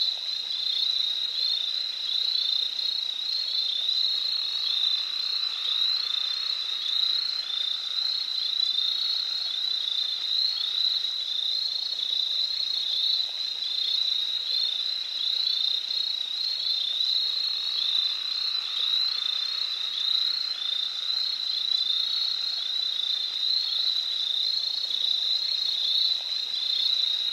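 Rainforest chorus of many small calling animals: dense, rapid high chirping repeated many times a second, with fainter lower calls underneath, steady throughout.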